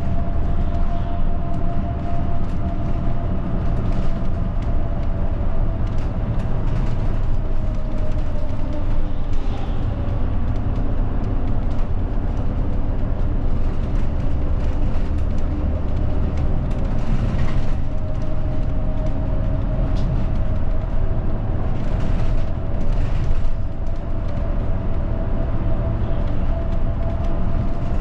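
Interior of a moving route bus: a steady low engine and road rumble, with a faint whine that slowly shifts in pitch and scattered small rattles and clicks.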